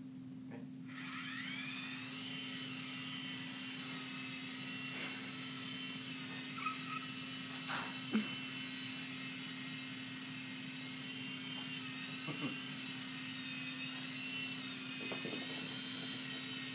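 Blade mCX2 micro coaxial RC helicopter's small electric motors spinning up about a second in, then a steady high-pitched whine and rotor buzz as it hovers. A few short clicks and knocks come through in the middle.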